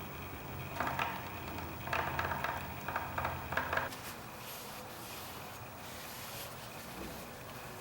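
Several short, light scraping sounds in the first four seconds over a faint low hum, then quieter.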